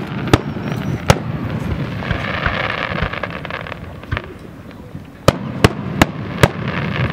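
Aerial firework shells bursting: three sharp bangs in the first second or so, a noisy crackling stretch in the middle, then four bangs in quick succession near the end.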